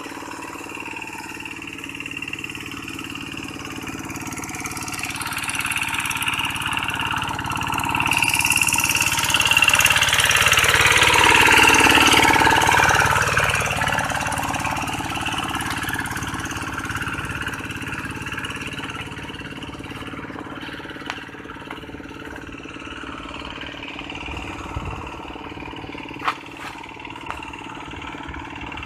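Tractor engine running steadily, growing louder to a peak about halfway through and then fading again, with a few sharp knocks near the end.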